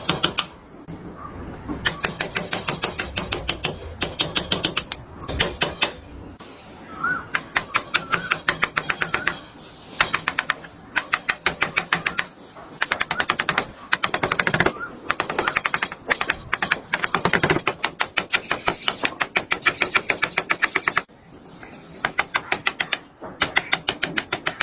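Sharp wooden tapping in quick runs of about five strikes a second, broken by short pauses, as of a mallet driving a carving chisel into wood.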